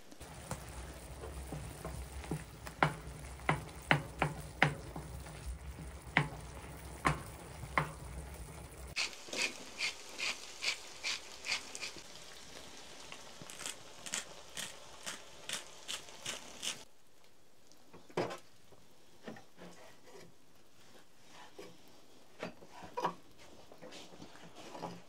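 A spoon stirring food in a pot, knocking against the pot's sides in sharp clicks about twice a second, with sparser knocks near the end.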